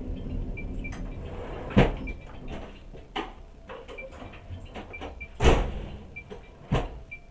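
Passenger train slowing to a stop, its low running rumble dying away over the first few seconds. Four sharp knocks sound through it, the loudest about two and five and a half seconds in.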